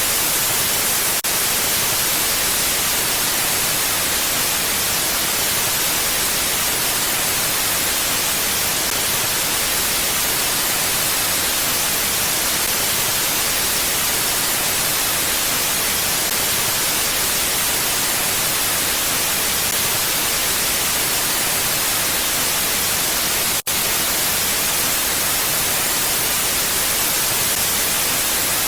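Steady mountain wind, an even hiss heavy in the high frequencies with no gusting swells. The sound cuts out for an instant about 24 seconds in.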